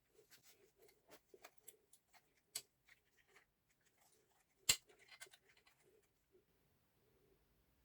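Scattered light clicks and taps, with one sharper click a little past halfway, thinning out near the end.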